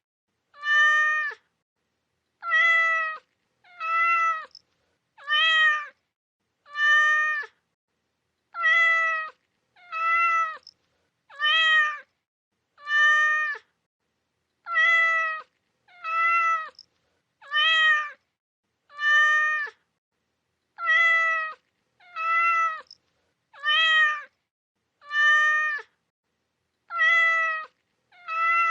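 Cat meows repeated at an even pace, about one a second, each short call much alike, with silence between.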